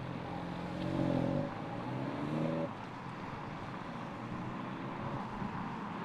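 MINI Cooper Convertible's engine accelerating as the car pulls away: its note rises, drops once about a second and a half in as it shifts gear, rises again, then eases off. A quieter, steady road noise follows as the car drives off.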